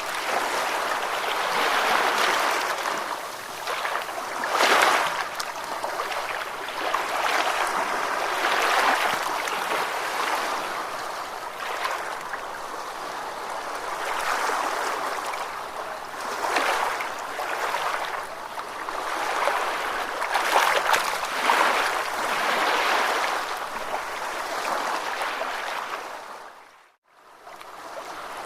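Ocean waves washing in, a steady hiss of surf that swells and ebbs every few seconds. Near the end the sound fades briefly to silence and then fades back in.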